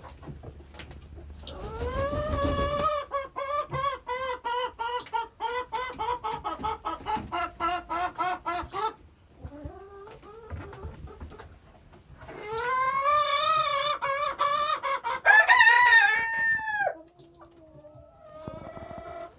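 Chickens calling: a long run of quick, evenly pulsed clucking, then a rooster crowing twice in the second half, the second crow the loudest.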